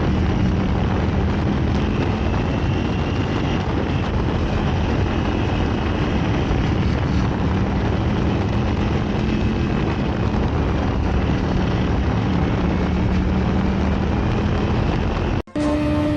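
Steady engine drone under a loud, even rush of wind and road noise, as heard from a camera on a moving vehicle. It cuts off abruptly near the end, and a different steady engine hum follows.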